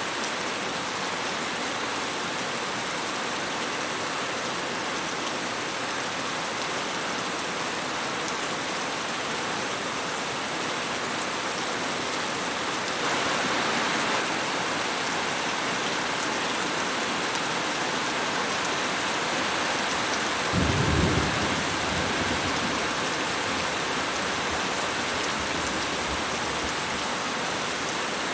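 Steady, heavy rainfall with a brief swell about halfway through, then a low roll of thunder about three-quarters of the way in that dies away over several seconds.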